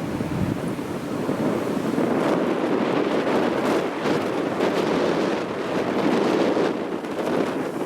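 Strong typhoon wind buffeting the microphone: a loud rushing noise that swells and eases in gusts.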